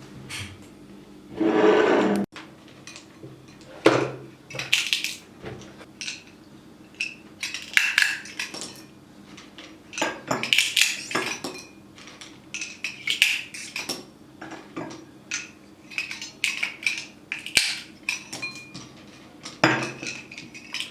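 Dishes and cutlery clinking and knocking in irregular short clatters, with a louder rushing noise lasting about a second near the start.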